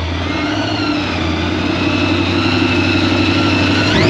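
Car engine idling steadily, then revved near the end, its pitch rising sharply.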